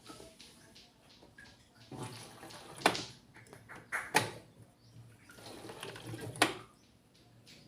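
Water moving in a twin-tub washing machine during a leak test, with sharp knocks and clicks: the loudest about three, four and six and a half seconds in.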